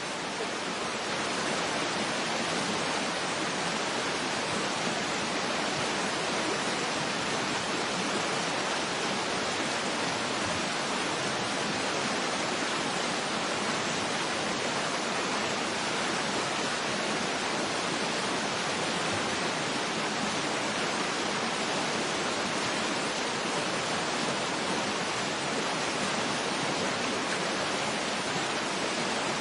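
Waterfall rushing steadily: an even, unbroken hiss with little deep rumble.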